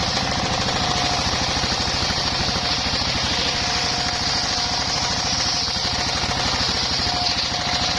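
Engine-driven circular sawmill running steadily: a rapid, even engine beat with a steady high tone and a hiss above it.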